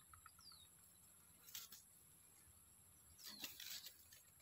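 Near silence broken by a few faint, high, downward-sliding bird chirps, one about half a second in and a slightly louder cluster past the three-second mark, over a thin steady high-pitched tone.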